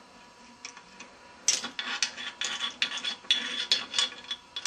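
Ratchet wrench clicking in quick irregular runs of sharp metallic clicks and clinks while the last bolt of the motorcycle's right-side foot peg bracket is worked loose. It starts about a second and a half in.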